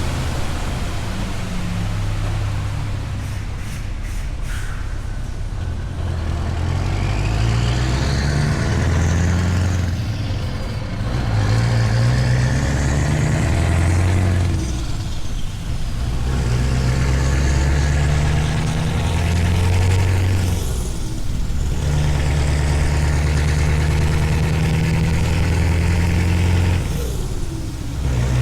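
Scania V8 truck engine with an open exhaust pulling up through the gears: its deep note climbs steadily, then drops back at each of four gear changes.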